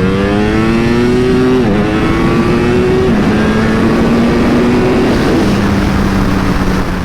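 Ducati Panigale V4R's 998cc V4 engine accelerating hard through the gears, its pitch climbing and then dropping at upshifts about one and a half, three and five and a half seconds in.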